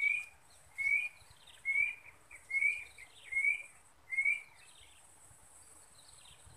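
A bird calling one short note over and over, about once a second, six times, falling silent about four and a half seconds in. A faint steady high hiss runs underneath.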